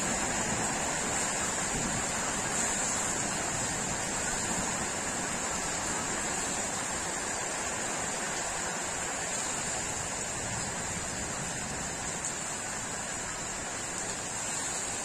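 Steady rain falling, an even hiss that fades a little over the stretch.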